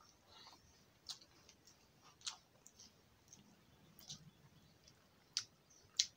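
Close-up eating sounds: a man chewing a mouthful of rice and fish with scattered sharp, wet mouth clicks and lip smacks, about one a second.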